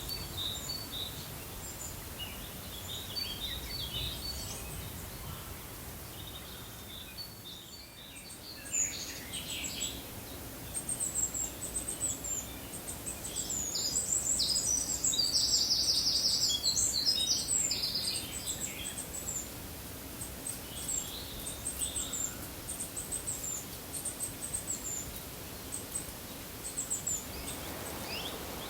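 Several birds chirping and singing over a steady background hiss, with short high calls throughout and a louder rapid trill about halfway through.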